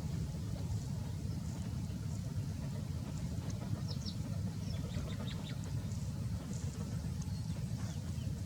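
A steady low rumble, with faint, short, high-pitched bird chirps scattered through it, most of them about four to five seconds in.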